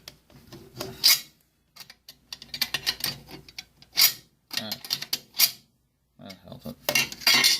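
Sharp metallic clicks and rattles of a Norinco MAK-90 AK-pattern rifle's steel parts being handled and fitted, in irregular clusters, loudest near the end.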